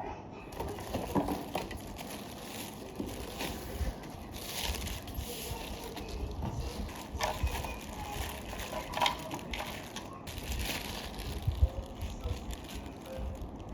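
Cardboard packaging rustling and crinkling as a box is opened and unpacked by hand, with irregular clicks and knocks from the handling.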